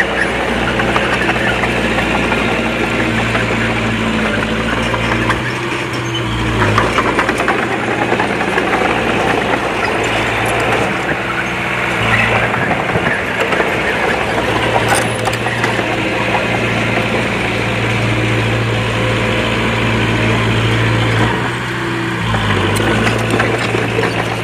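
Diesel engine of heavy earthmoving machinery running steadily under load. Its note shifts about five seconds in and again near the end.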